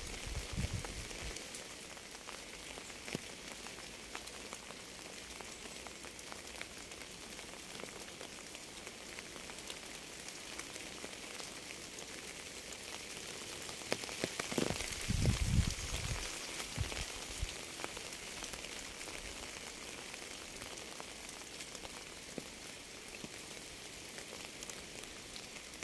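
Steady rain falling, with many fine drop patters over a constant hiss. A low rumble swells for a couple of seconds about halfway through and is the loudest moment.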